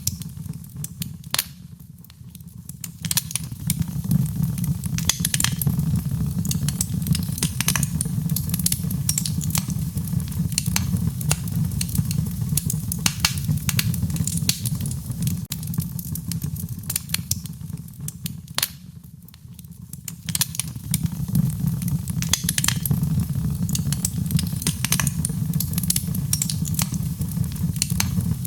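Wood fire crackling in a fireplace: a dense run of sharp snaps and pops over a low, steady rumble of the burning. The crackling eases off briefly twice, about two seconds in and again about nineteen seconds in.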